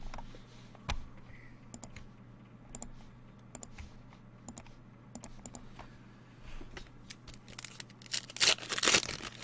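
Trading cards being handled and flipped, with scattered light clicks and slides of card on card. There is a louder, denser rustle of cards about eight seconds in.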